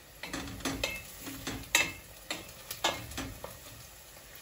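A utensil knocking and clinking against a bowl while a filling is mixed: a string of irregular sharp taps, several ringing briefly.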